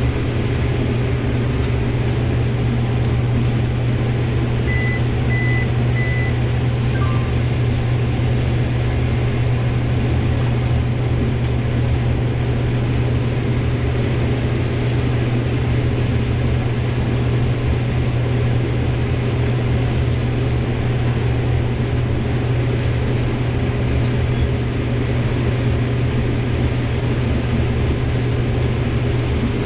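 Combine harvester running steadily in corn, a constant low engine drone heard inside the cab. Three short high electronic beeps come about five seconds in.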